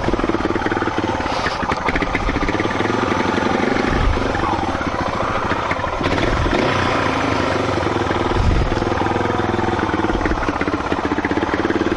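Motorcycle engine running steadily under load, its revs rising and falling, with a heavier low thump about four seconds in and again around eight and a half seconds.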